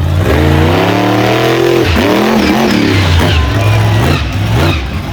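Monster truck engine revving hard, its pitch climbing through the first two seconds, then dropping and rising again several times as the throttle is worked.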